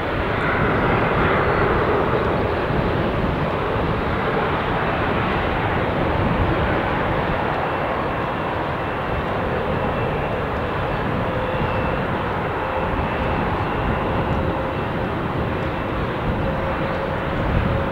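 Boeing 737 turbofan engines at takeoff power, a steady jet roar, with wind buffeting the microphone. Two faint steady whining tones come in about two-thirds of the way through.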